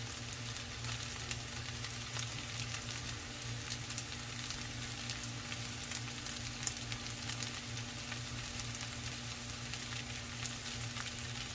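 Ground beef and rice frying in a pan: a steady sizzle with scattered small crackles, over a steady low hum.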